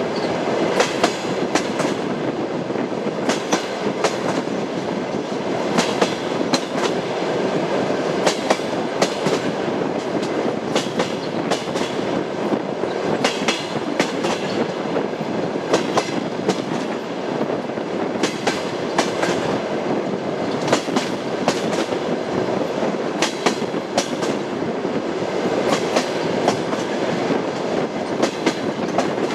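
Train running on rails: a steady rumble with the clickety-clack of the wheels over rail joints, sharp clacks coming in pairs and small groups every second or two.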